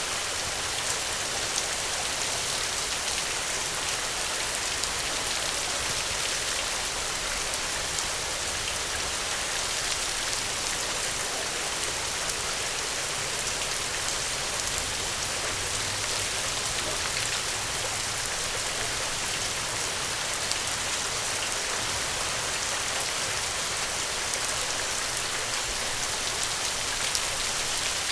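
Steady rain: an even hiss of falling rain with scattered faint drop ticks, unchanging in strength.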